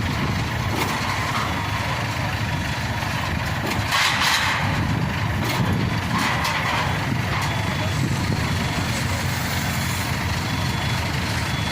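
Heavy engine running steadily, with a short burst of hiss about four seconds in and another around six seconds.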